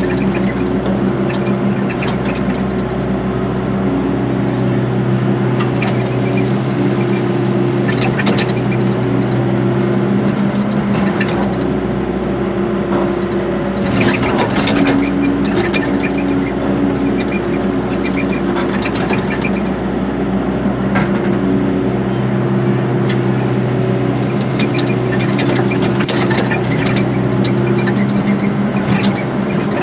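Hydraulic excavator's diesel engine running steadily under working load, its tone shifting slightly as it works, with a few sharp knocks, the clearest about eight and fourteen seconds in.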